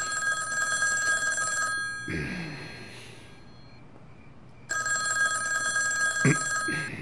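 Old rotary desk telephone's bell ringing: two rings of about two seconds each, about three seconds apart.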